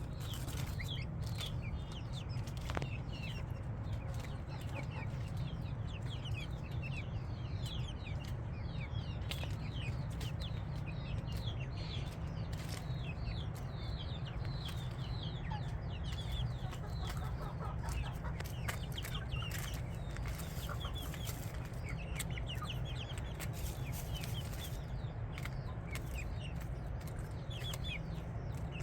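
A flock of chickens calling, with many short high peeps and chirps overlapping throughout, over a steady low hum.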